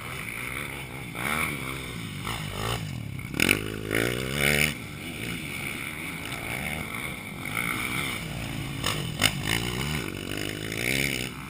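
Motocross bikes running on the track, engines revving up and down, loudest as they pass about three and a half to five seconds in and again about nine seconds in.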